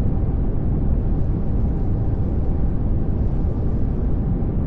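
Steady pink noise: an even, unchanging hiss with most of its weight in the low end.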